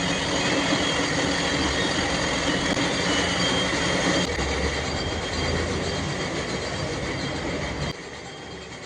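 Workshop machine running with a steady, dense mechanical noise and faint high steady tones, dropping sharply in level about eight seconds in.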